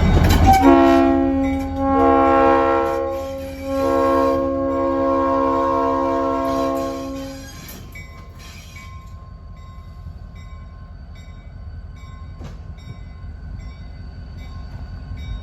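Locomotive air horn sounding a multi-note chord in three blasts, the last one long, followed by a steady low rumble of the locomotive standing.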